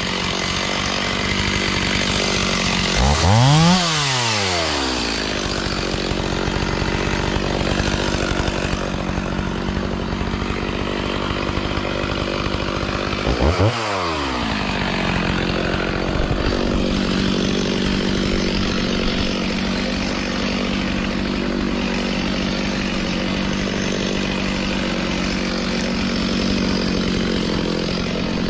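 Chainsaw engine running steadily at idle, revved up and let back down twice: once about three seconds in and again near fourteen seconds.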